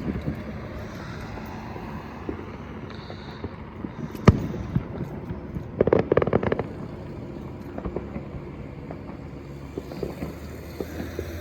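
Fireworks going off: a single sharp bang about four seconds in, then a quick run of crackling pops around six seconds, over a steady low rumble.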